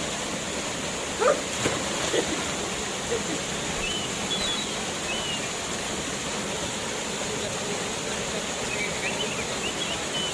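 Waterfall rushing steadily, with a few short high chirps now and then over the water.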